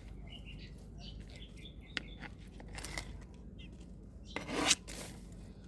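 A knife scraping and cutting through honeydew melon in rasping strokes, the loudest one near the end, with a sharp click about two seconds in and faint high chirps in the first two seconds.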